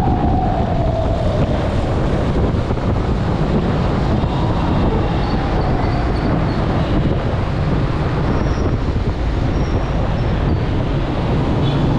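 Steady road traffic rumble with wind buffeting the microphone. A tone glides down in pitch over the first few seconds, and another falls around the middle.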